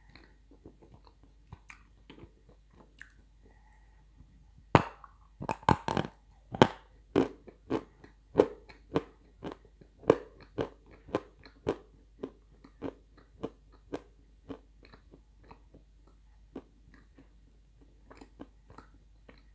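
Crunching and chewing of dry edible clay chunks close to the mouth. After a few quiet seconds it starts with a cluster of sharp crunches, then settles to a steady one or two bites a second and thins to a few scattered crunches near the end.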